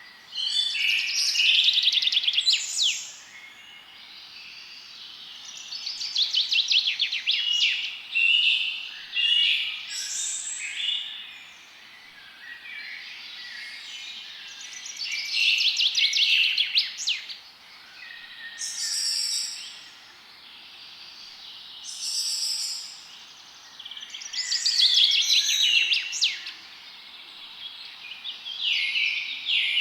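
Songbirds singing: bursts of fast trills and chirps, some with quick falling whistles, come every few seconds over a faint steady hiss.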